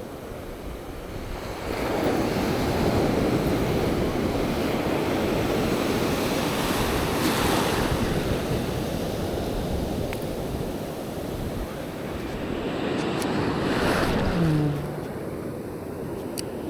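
Ocean surf breaking and washing up the beach in two swells: one rises about two seconds in and holds for several seconds, and a later one builds and then falls away sharply, with wind buffeting the microphone.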